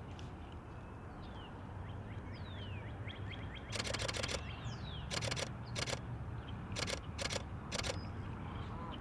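Canon R5 shutter firing in about six short bursts of rapid clicks, starting a little under four seconds in. Small birds chirp briefly before the bursts.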